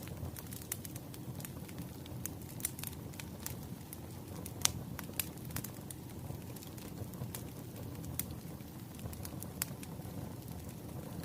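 Bonfire crackling: a steady low rumble of burning wood with scattered sharp pops and crackles, one louder pop about halfway through.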